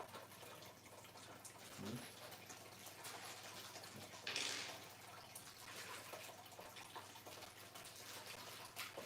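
Faint small clicks and light rustling of screws and mounting hardware being handled and sorted, with a short rustle about four seconds in.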